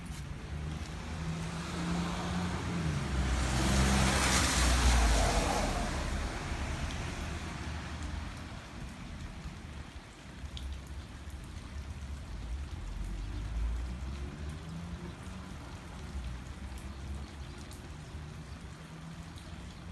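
Steady rain falling, with a car passing on the wet street: its tyre hiss swells to a peak about four to five seconds in and fades away. A low engine hum comes back near the end.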